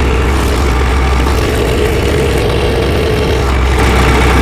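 Tractor engine idling steadily, a constant low drone with a steady hum.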